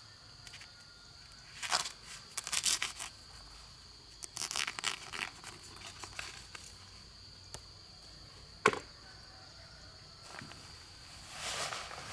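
Scattered scraping and rustling bursts from hands-on outdoor work, with one sharp click about two thirds of the way in. Behind them runs a steady high insect buzz.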